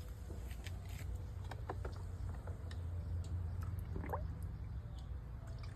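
Scattered light clicks and taps, small hard things being handled, over a steady low hum, with a short rising squeak about four seconds in.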